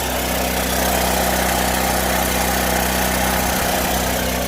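Generator engine running steadily, a constant low hum with no change in speed.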